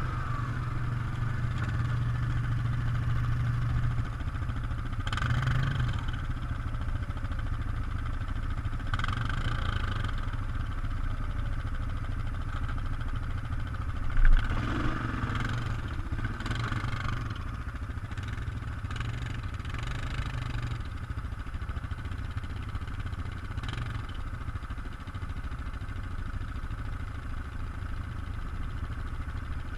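ATV engine running steadily while riding, with several brief surges of noise and rattle and one sharp thump about halfway through.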